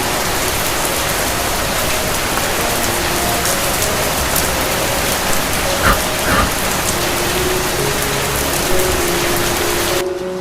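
Steady heavy rain. Faint, soft melody notes come in a few seconds in, there are two short thumps around the middle, and the rain cuts off just before the end.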